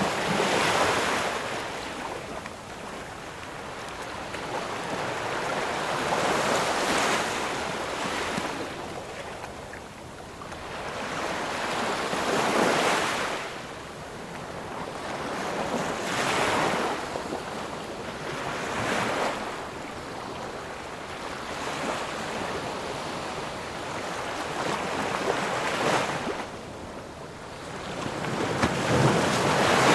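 Ocean surf: waves breaking and washing up a shore, the rush swelling and ebbing in surges every few seconds, with the loudest swell near the end.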